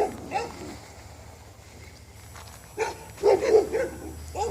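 Dogs barking in short yapping barks: a couple near the start, then a quick run of several barks about three seconds in, and one more near the end.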